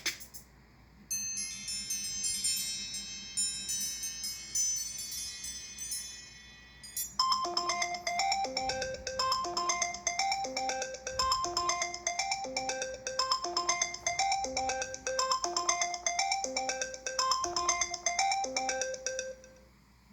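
Two iPhone 5S ringtones played one after the other: first a shimmering run of high bell-like chimes for about six seconds, which stops abruptly, then a short marimba-like riff with a low note repeated over and over until just before the end.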